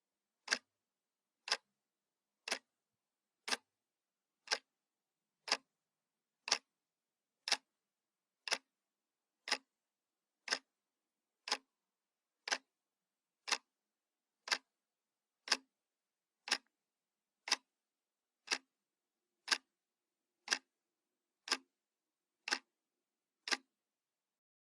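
Analog clock ticking steadily, one sharp tick a second.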